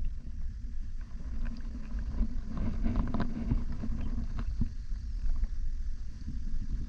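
Wind rumbling on the microphone out on the water, with a cluster of small splashes and knocks about halfway through, as from a kayak.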